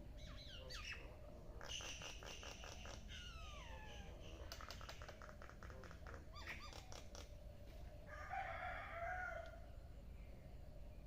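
Birds calling: a mix of short chirps, falling whistles and fast clicking trills, with a louder burst of calls about eight seconds in.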